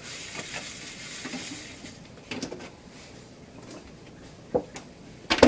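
Dishes and kitchenware clinking and knocking together during washing up, with a faint hiss of running water for the first couple of seconds. A sharp clatter comes a second before the end, and the loudest just at the end.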